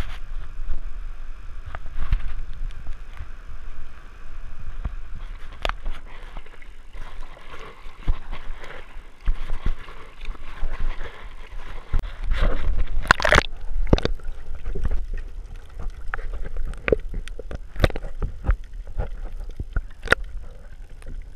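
Water sloshing and gurgling close to the microphone, with knocks and bumps of the camera being handled.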